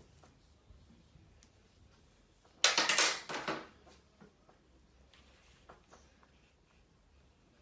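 A brief, loud rattling clatter lasting about a second, a little before the middle, over quiet room tone.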